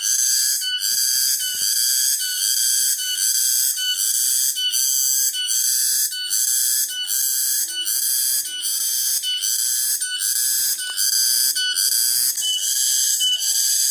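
Cicadas (tonggeret) calling loudly in a pulsing rhythm of about two pulses a second, with a shrill high buzz that runs on without a break. Fainter, irregular lower sounds lie beneath.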